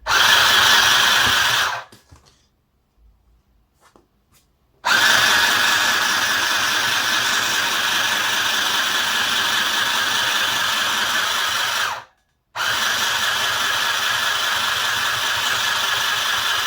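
Mini sewing machine's motor running as it stitches a hem, stopping and starting with the foot pedal: a short run, a pause of about three seconds, a long run of about seven seconds, a brief stop, then another run of about five seconds.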